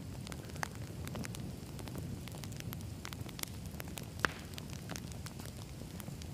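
Campfire of firewood burning: a steady low rumble of flames with irregular sharp crackles and pops, one pop louder than the rest about four seconds in.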